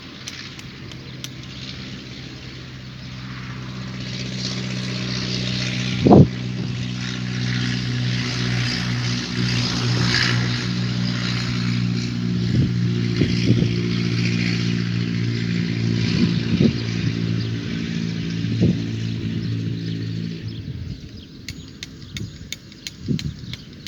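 An engine running steadily, louder from about four seconds in, then stopping near the end.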